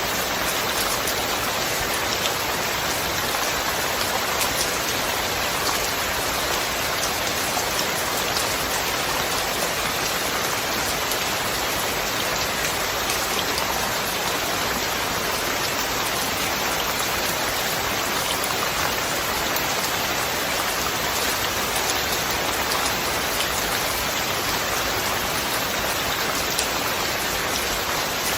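Steady rainfall, a dense, even hiss of drops pattering on surfaces, with no thunder.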